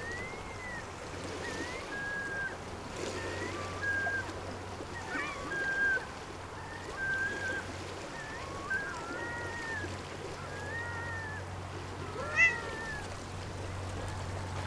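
Cat mewing over and over, short high mews about one a second, with a louder one near the end.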